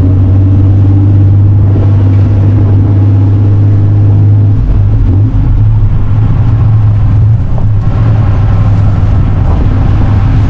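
Loud, steady low rumble of a motor vehicle running. The rumble shifts and deepens about four and a half seconds in.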